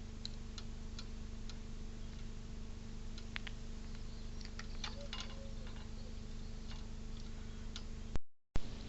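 Irregular light clicks and taps over a steady electrical hum, the sound of a small animal handling a bird feeder. The sound cuts out for a moment near the end.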